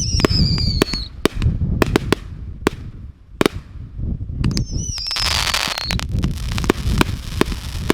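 Fireworks going off close overhead: a rapid series of sharp cracks and bangs, with two whistles falling in pitch, one at the start and another about five seconds in, the second followed by a burst of hissing crackle.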